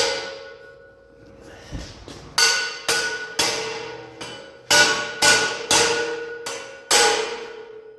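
Steel deer-stand sections being struck to seat one piece onto another: about nine sharp metal clanks in uneven groups, each ringing on like struck steel tubing.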